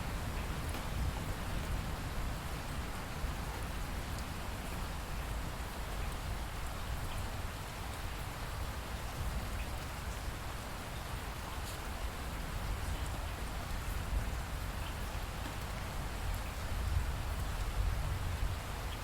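Steady rain falling, with scattered individual drops ticking over a continuous hiss and a low rumble underneath that swells slightly near the end.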